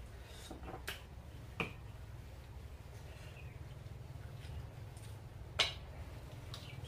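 Eating sounds: a man chewing pieces of grilled pork sekuwa, with a few sharp mouth clicks (about 1 s in, 1.5 s in, and the loudest about 5.5 s in), over a steady low hum.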